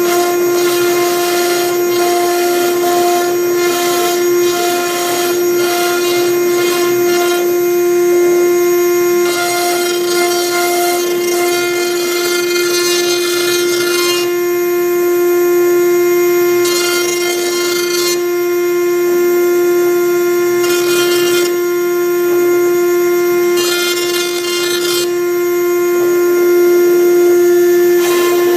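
CNC router spindle running with a steady whine while its V-bit engraves MDF. Stretches of rasping cutting noise start and stop every second or few as the bit moves from stroke to stroke.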